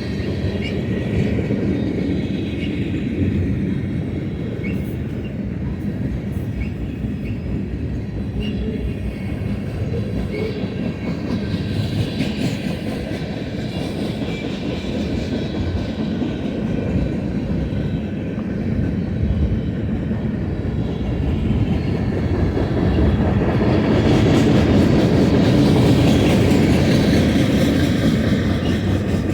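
Freight cars of a long BNSF manifest train rolling past steadily, wheels clacking over the rails with short faint wheel squeals in the first half. The rumble grows louder about 24 seconds in.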